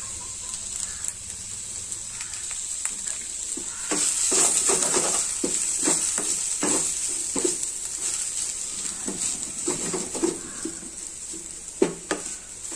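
Anchovy and onion mixture sizzling in a stainless steel pan while a wooden spatula stirs and scrapes it in repeated strokes. The frying hiss grows louder about four seconds in.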